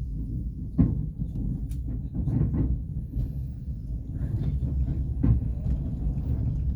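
Passenger train running on the rails: a steady low rumble with a sharp knock about a second in and another near five seconds.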